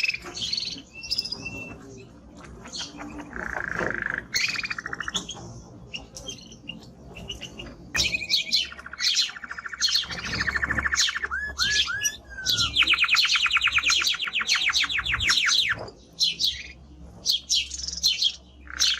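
Male canary singing a varied song: short chirps and whistles, then rapid trills, the loudest a long fast trill of about three seconds past the middle.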